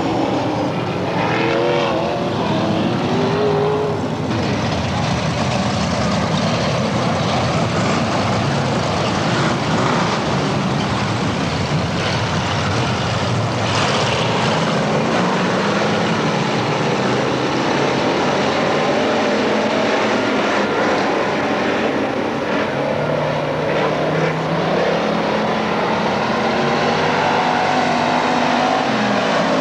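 Race car engines running at speed on a dirt track, their engine notes rising and falling as the cars accelerate, back off and pass.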